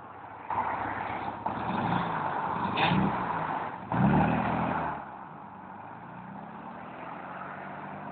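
1971 Volkswagen Beetle's air-cooled flat-four engine pulling hard under acceleration, growing louder over several seconds. About five seconds in it drops back, then climbs gently again in a steady pull.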